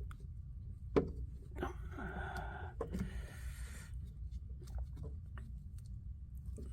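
Handling of a furnace's plastic condensate drain connector: a sharp knock about a second in, then a couple of seconds of rustling and scraping, with small clicks, over a steady low hum.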